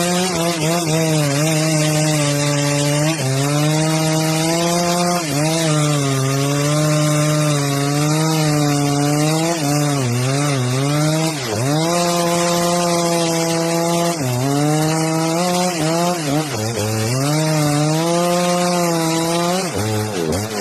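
Two-stroke chainsaw at high revs cutting through wood. The engine note holds steady and dips briefly several times as the chain is loaded in the cut.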